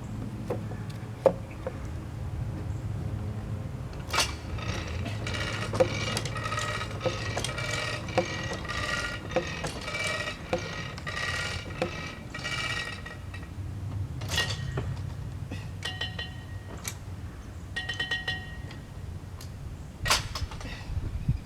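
A steady low engine hum from the sawmill, with a long run of metallic clinking, clicking and squeaking from about four seconds in, and more squeaks near the end, as the heavy cherry log is rolled and turned on the mill.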